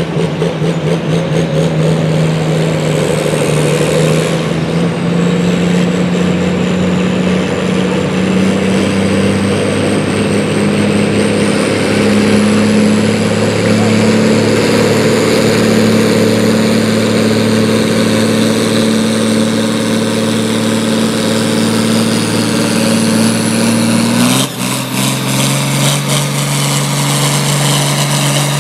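Pulling vehicle's engine working hard under load down the track, its pitch climbing slowly and steadily. About 24 seconds in the pitch drops suddenly as the engine comes off the throttle and runs on lower and steady.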